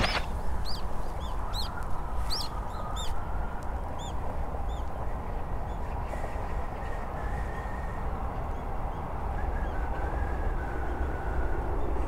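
Birds calling: a run of short, high, arched chirps repeated through roughly the first five seconds, over a steady low background rumble.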